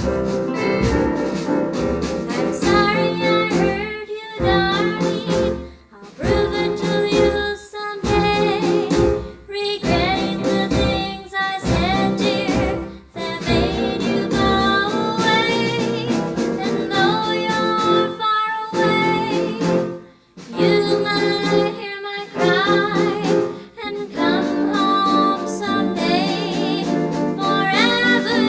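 Early-1960s doo-wop-style ballad recording: a high female lead voice singing a wavering melody over a backing band, with short breaks between phrases.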